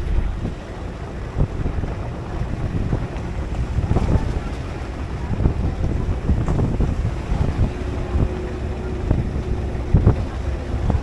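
Wind buffeting the microphone with a low rumble from a moving shuttle vehicle, gusting up and down, with a few scattered knocks.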